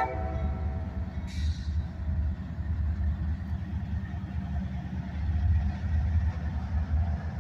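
Diesel locomotives of a freight train passing close by, a steady low engine rumble, with a brief hiss about a second and a half in.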